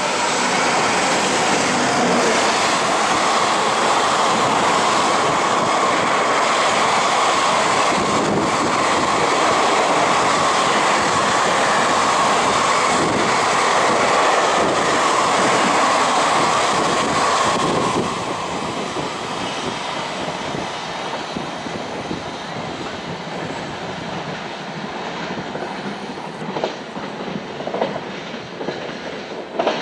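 Freight train running through, its wheels clattering over the rails. Loud and steady for the first eighteen seconds or so, then noticeably quieter, with brief wheel squeals near the end.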